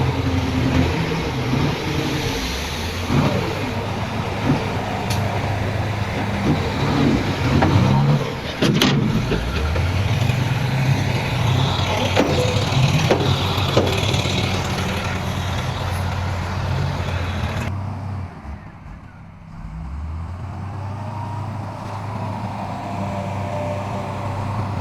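Heavy diesel earthmoving machinery working: an engine runs steadily, with scattered clanks and knocks in the first half. About 18 seconds in the sound drops sharply for a couple of seconds, then an engine comes back in.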